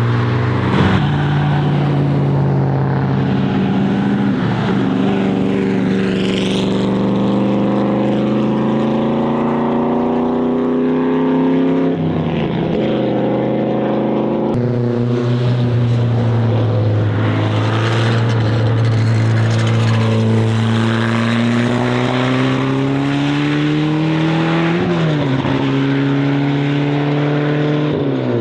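Car engines running hard, their pitch climbing slowly as they accelerate and dropping sharply at gear changes or lifts, about 12 seconds in and again near the end. There is an abrupt cut about halfway through.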